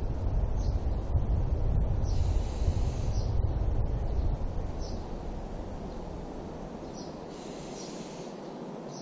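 A bird repeats short, high chirps about every second or two over a low, gusting rumble of wind on the microphone, which eases off after about six seconds.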